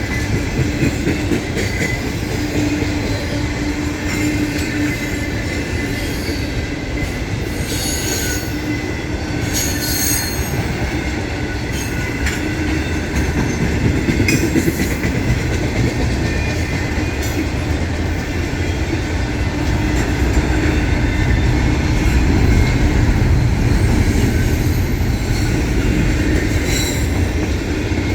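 Freight train rolling past: a steady, loud rumble of wheels on rail, with wheel squeal and a few brief clanks or screeches about eight and ten seconds in.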